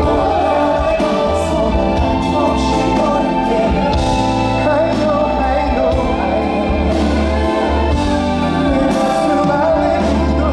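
Live concert performance of a song: a male singer's voice over a band with a steady bass line, in a hall.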